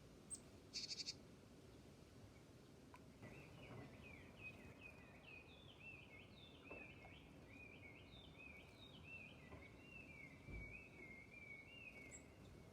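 A faint songbird sings a long, continuous run of short, slurred whistled notes. A brief rapid chatter comes about a second in.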